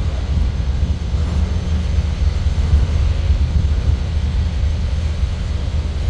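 Freight train's covered hoppers and tank cars rolling past on the rails, a steady low rumble.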